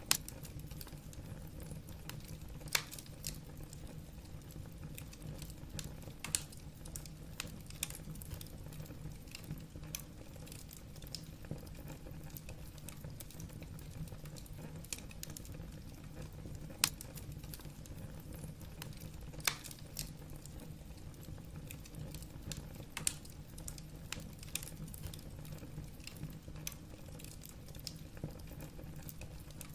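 Wood fire burning in a fireplace: logs crackling with irregular small snaps and a few louder single pops, over a steady low rumble.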